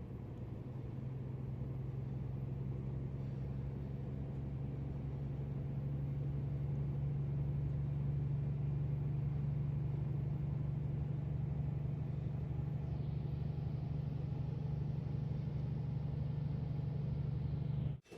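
Scania truck's diesel engine running with a steady low drone that grows slightly louder, then cuts off suddenly at the end.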